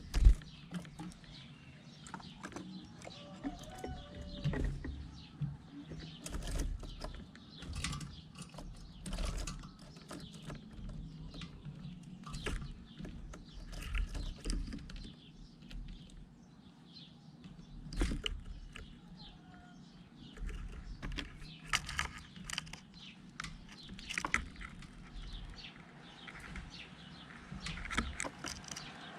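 Birds feeding: scattered short taps and rustles with occasional faint chirps, and a single loud thump right at the start.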